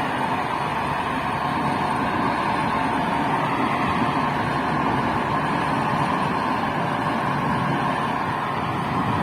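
Kirovets K-700 tractor's turbocharged YaMZ-238 V8 diesel running steadily, freshly overhauled.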